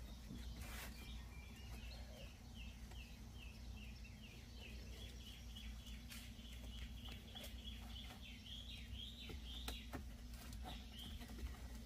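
A bird calling faintly in a long, even series of short falling chirps, about two a second, over a steady low electrical hum, with a few light clicks.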